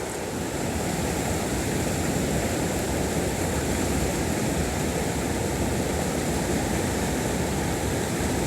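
Mountain stream water rushing over rocks: a steady, even rush of flowing water.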